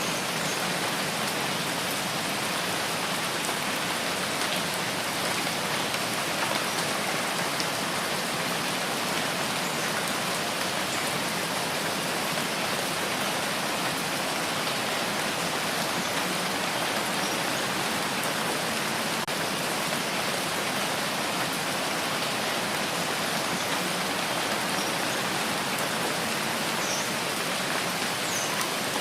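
Steady rain falling, a constant hiss of drops with no breaks or changes and a few faint tiny drip ticks.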